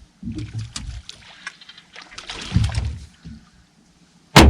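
Handling and knocking noises on a small fishing boat while a freshly caught fish is checked for size. A single sharp, loud knock comes near the end.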